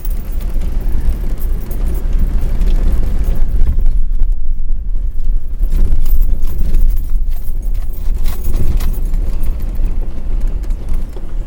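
A Jeep driving up a rough driveway, heard from inside the cab: a loud, steady low rumble of engine and tyres, with light rattling over the bumps.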